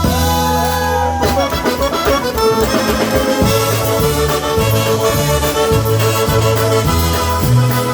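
Live polka band music led by accordion. A held chord with a bending melody line opens the tune, then the bass settles into a steady alternating beat about two and a half seconds in.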